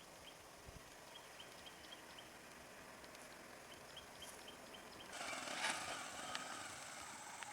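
Quiet outdoor background with faint, high chirps repeating every fraction of a second. About five seconds in, a vehicle's running noise comes up suddenly and stays.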